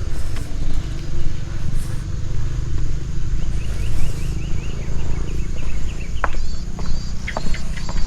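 Steady low rumble, with birds chirping over it: a quick run of short high chirps about three and a half seconds in, and more chirps along with a few sharp clicks near the end.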